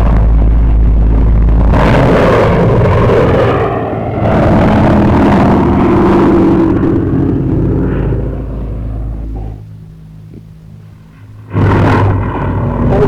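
Aircraft engines running loud during an air show display, fading to a quieter stretch late on, then cutting back in abruptly near the end.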